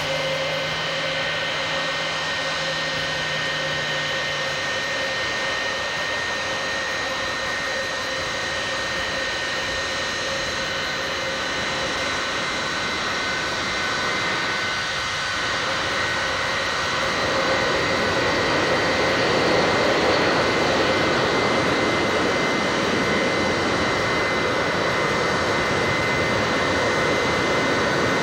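Boeing 707 jetliner's jet engines running with a steady rushing noise and high whining tones, growing somewhat louder about two-thirds of the way through.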